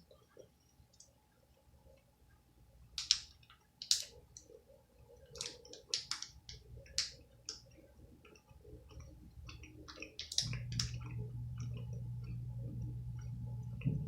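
Close-up mouth sounds of chewing chocolate: scattered wet clicks and smacks, some sharp. About ten seconds in a low steady hum comes in and stops with a click near the end.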